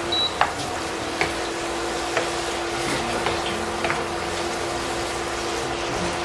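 Kimchi and onion sizzling in a frying pan as a wooden spatula stirs them, with a few light clicks of the spatula against the pan. A steady hum runs underneath.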